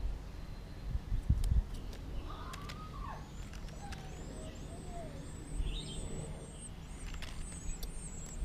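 Small birds chirping: a lower, arching call about two and a half seconds in, then a quick run of short, high chirps repeating through the second half. A few low thumps near the start.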